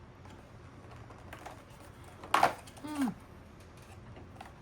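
Packaging being handled while a cheese is taken from an advent calendar compartment: light clicks and rustles, with a louder crackle a little past two seconds in. A brief voice sound falling in pitch follows just before three seconds.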